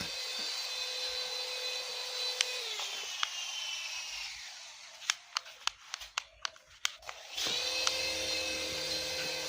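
Small battery-powered electric motor of a toy RC helicopter whining steadily, winding down and stopping a few seconds in. A run of about eight sharp clicks follows, then the motor spins back up quickly and runs steadily again.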